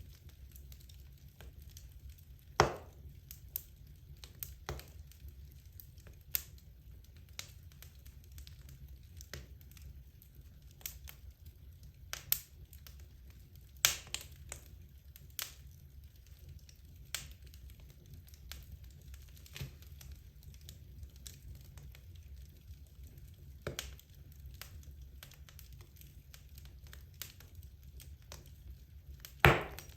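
Wood fire crackling in a fireplace: scattered sharp pops and snaps from the burning logs, a few of them loud, over a faint low hum.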